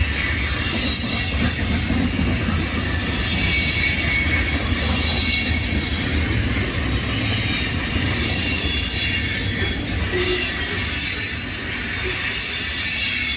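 CSX freight train's cars rolling past, a steady loud rumble of wheels on rail with thin, high wheel squeal above it.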